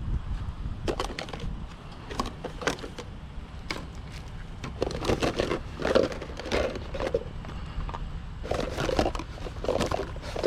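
Junk being rummaged through by hand: irregular knocks, clatters and rattles of objects being picked up and moved, busier about halfway through and again near the end, over a steady low rumble.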